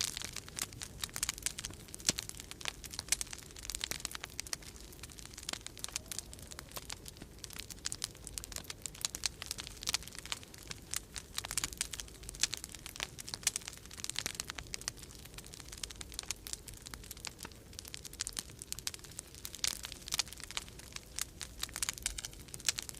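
Wood fire crackling in a fireplace: a dense, irregular run of sharp pops and snaps, over the steady low rumble of winter-storm wind.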